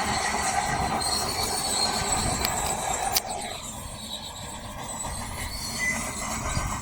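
Heavy earthmoving machine working rock, a steady mechanical racket with high metallic squealing. A sharp click comes about three seconds in, and the sound is quieter after it.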